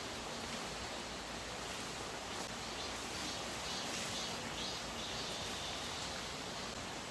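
Steady rushing of a flowing valley stream.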